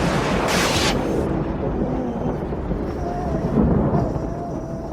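Tornado storm: a low rumble runs throughout, with a brief hissing gust of wind in the first second. From about three seconds in, a thin wavering howl of wind sounds over it.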